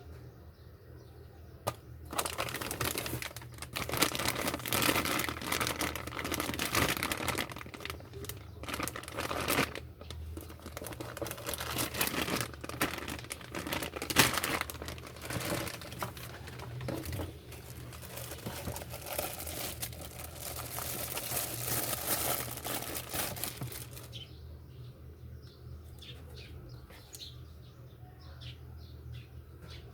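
Plastic packaging crinkling and rustling as it is handled during a power-supply unboxing. The rustling starts about two seconds in and runs for some twenty seconds, then gives way to lighter handling clicks.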